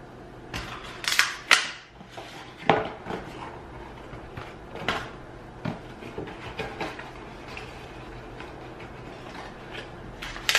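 Scattered clicks, taps and knocks of small objects and packaging being handled. A cluster of louder ones comes in the first three seconds, another about five seconds in, and lighter ticks follow.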